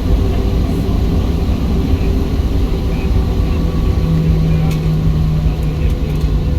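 Cabin noise of a Boeing 737-700 taxiing: a steady low rumble of its CFM56 engines at taxi power, with a low hum that grows stronger about four seconds in.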